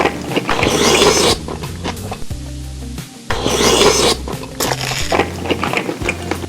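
Close-miked eating sounds: two loud crunchy, scraping bursts of about a second each, roughly three seconds apart, with smaller clicks between, over background music with a steady bass line.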